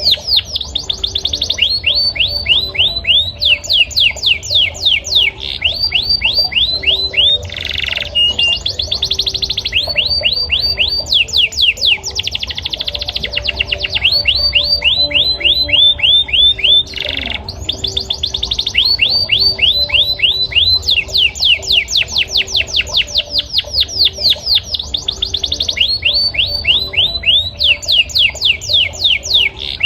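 Male canary singing: long, fast trills of repeated notes that each sweep down in pitch, strung together in runs that change speed. The runs are broken twice by a brief harsh note.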